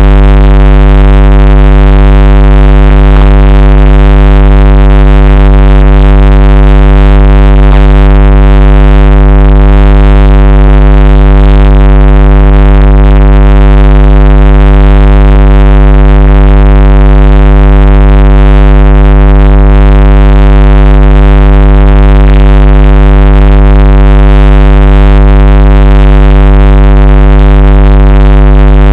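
A loud, steady electronic drone: a deep low hum with a stack of held tones above it, unchanging in pitch throughout.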